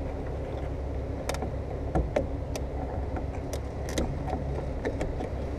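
Scattered sharp clicks and taps, about seven in all, as plastic retaining clips of a BMW 750's windshield molding are pushed and worked by hand. A low steady hum runs underneath.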